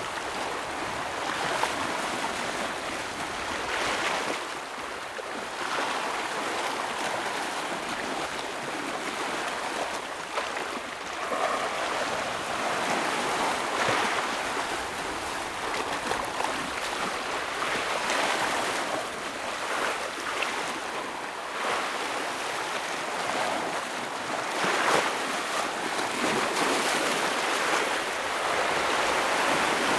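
Ocean waves breaking and washing over rocks: a continuous rushing surf that swells and eases every few seconds, with a sharper splash about 25 seconds in.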